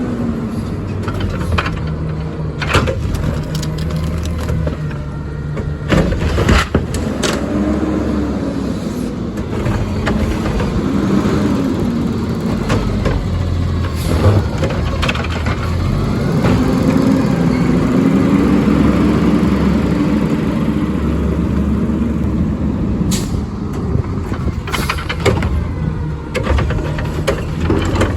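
Peterbilt 520 garbage truck with a Curotto Can arm working a pickup: its diesel engine revs up and down in several slow swells while sharp bangs and clanks ring out, along with air-brake hisses.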